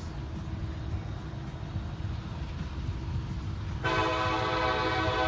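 Locomotive air horn starting suddenly near the end, a loud steady chord of several notes, over a low rumble.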